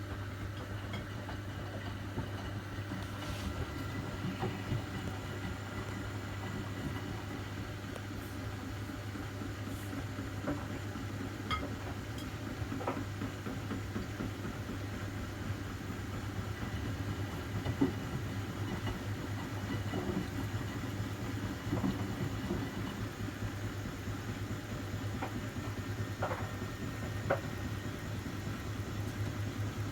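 Miele washing machines running together mid-cycle: a steady motor hum and rumble with a few scattered clicks.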